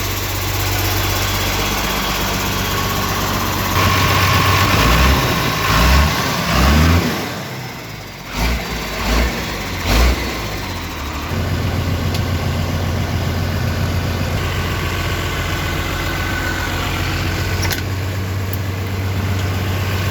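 Tata LPT 2515 truck's diesel engine running, revved up several times in the first half, with a couple of sharp knocks, then settling into a steady idle from about halfway through.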